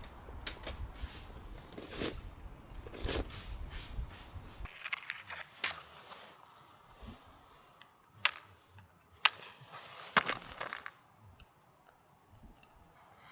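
Irregular crunches and sharp cracks, some single and some in quick clusters, with the steady low background dropping away abruptly a little under five seconds in.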